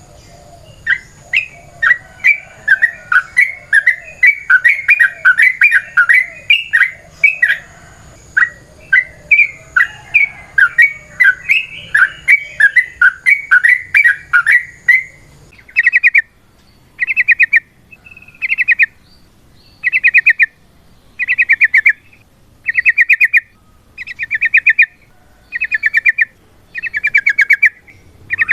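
Yellow-vented bulbuls (trucukan) calling: about the first half is dense, overlapping chattering, then it changes abruptly to a single bird's rapid rattling trills, each lasting under a second and repeating at a regular pace of about one every second and a half.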